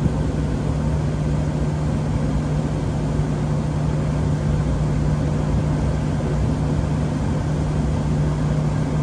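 Gas-fired HVAC unit running at high fire: a steady hum with a constant low tone.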